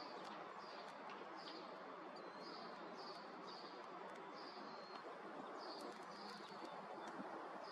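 A small bird chirping over and over: short high calls about twice a second, over a faint steady outdoor background hiss.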